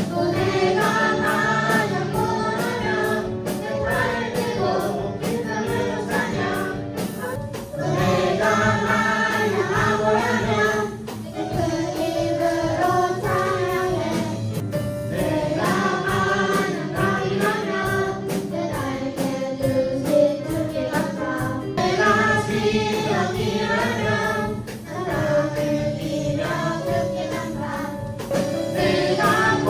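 A Korean praise song: a group of voices singing over a backing track with a steady beat.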